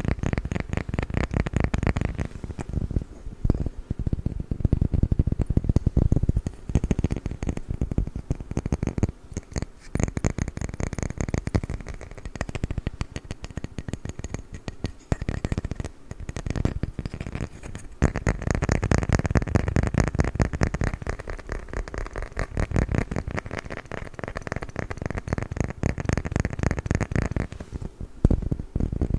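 Rapid tapping and scratching on a wooden lid, a dense run of quick clicks that swells louder in stretches.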